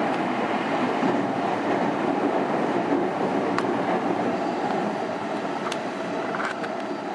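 Meitetsu electric commuter train running, heard from inside the car: a steady rumble of wheels on the rails, with a few sharp clicks, the noise easing slightly in the second half.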